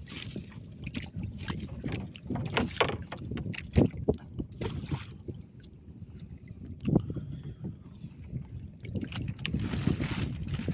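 Water splashing and lapping around a small boat at sea, with irregular knocks and splashes against the hull.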